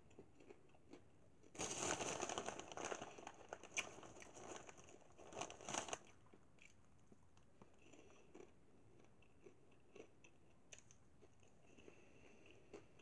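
Mouthful of glazed popcorn being chewed: a few seconds of loud, dense crunching about two seconds in, then only faint scattered crunches.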